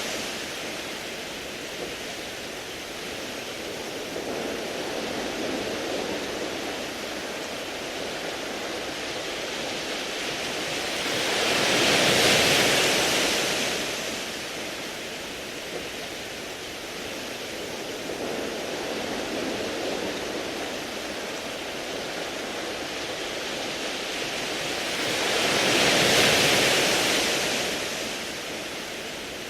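Sea waves washing over a round-pebble beach: a steady hiss of surf, with a wave surging and draining back through the pebbles twice, about twelve seconds in and again near the end.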